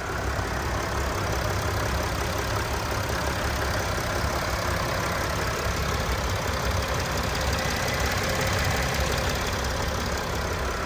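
2015 Sprinter van's diesel engine idling steadily.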